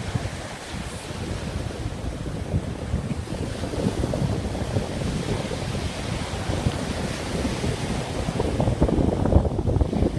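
Surf of the Sea of Okhotsk washing on the shore, with wind buffeting the microphone in a low rumble. The wash grows a little louder near the end.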